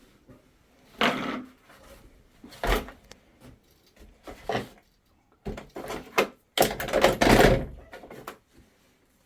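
A series of knocks and clunks, then a longer, louder rustling clatter near the end, as tools and parts are handled and set down by hand.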